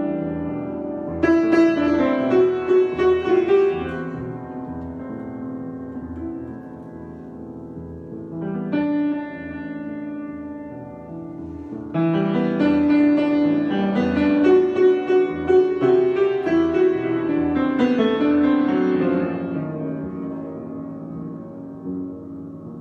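Solo piano improvisation: chords struck and left to ring. There is a busier run of notes after about a second, a soft chord around nine seconds, and a fuller, louder passage in the middle that dies away near the end.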